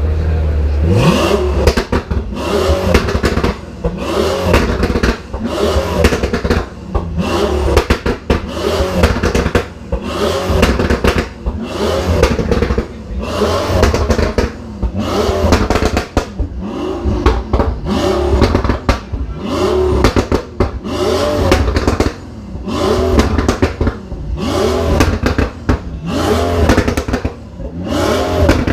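Supercar engine being revved over and over: a loud rev about once a second, each one rising and falling in pitch, over a deep rumble.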